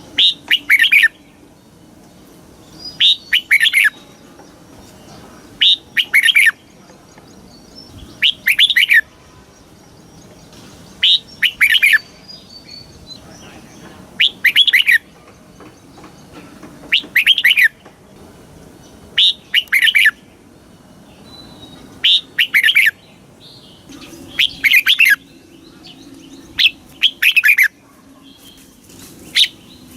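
Red-whiskered bulbul singing short, bright whistled phrases, one about every two and a half to three seconds, each lasting under a second.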